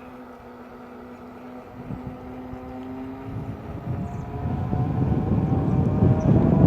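Electric unicycle hub motor whining steadily as it rides, its pitch edging upward in the second half, with tyre and wind noise growing louder over the last few seconds.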